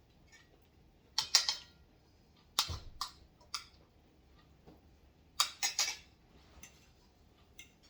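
Eating sounds at a table: short sharp clicks and taps in small clusters, about a second in, again around two and a half to three and a half seconds, and a denser group about five and a half seconds in.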